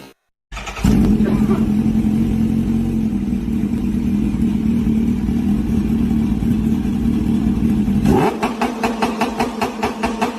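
Kawasaki Ninja H2R supercharged inline-four through an aftermarket exhaust, held at a steady high pitch for several seconds. About eight seconds in it changes to a rapid pulsing, several beats a second.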